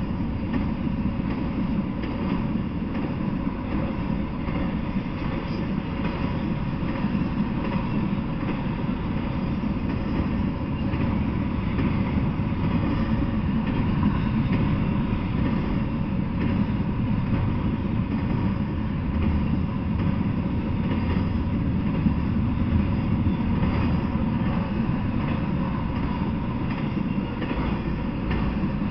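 Intermodal freight train rolling steadily past, container and trailer-on-flatcar cars: a continuous rumble of steel wheels on rail, with faint clicks from the wheels over the track.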